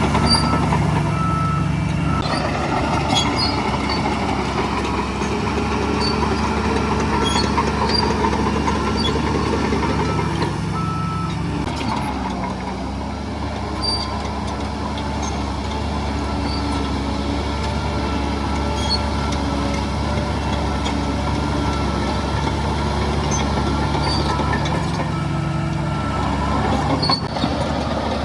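Heavy diesel earthmoving machinery running steadily, with a reversing alarm beeping in runs of short, evenly spaced beeps that come and go.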